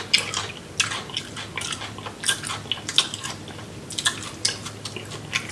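Close-miked chewing and biting: a man eating a crawfish boil, with irregular wet mouth clicks and smacks.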